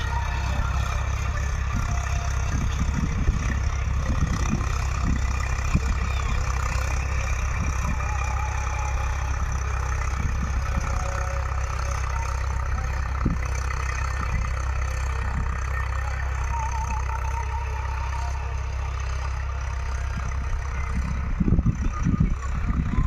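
Tractor engine running steadily with a deep, even rumble, with a few louder surges near the end.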